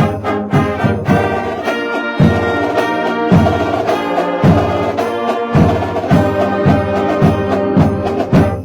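High school marching band playing a holiday tune: brass instruments carrying the melody over a steady bass drum beat.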